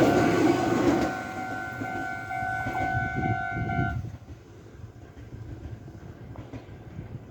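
Electric commuter train passing close by: a loud rumble of the cars with a steady two-tone whine that cuts off suddenly about four seconds in, leaving a much quieter low rumble.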